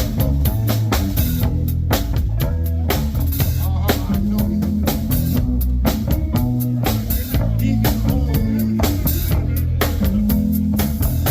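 Live band playing an instrumental passage: drum kit keeping a steady beat with snare and kick, under bass and guitar.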